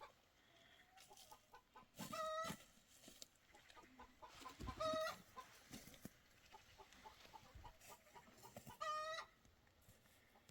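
Domestic chicken clucking, with three short drawn-out calls a few seconds apart.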